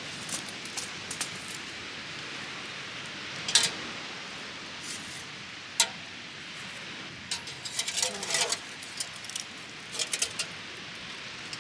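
Scattered light clicks and clinks of small hard objects being handled, a cluster of them about two thirds of the way through, over a steady background hiss.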